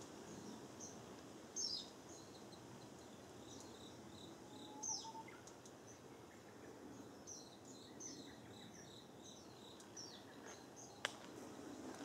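Small birds calling in short, high chirps, scattered in little clusters, over a faint steady high insect tone and a low outdoor hiss. A single sharp click near the end.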